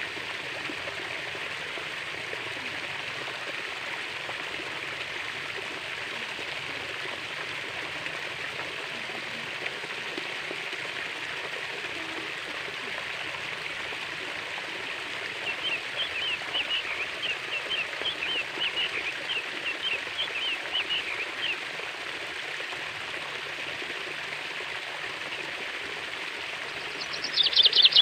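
Water flowing steadily in a stream. About fifteen seconds in, a bird gives a quick series of chirps for about six seconds, and near the end a louder, rapid burst of bird chirping begins.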